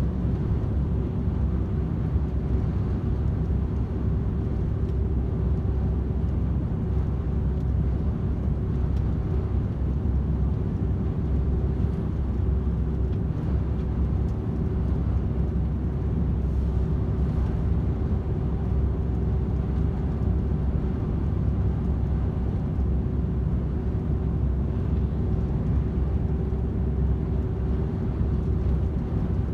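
DAF XF 510 truck with its PACCAR MX-13 six-cylinder diesel cruising at a steady motorway speed: an even low engine and road rumble with a constant hum over it.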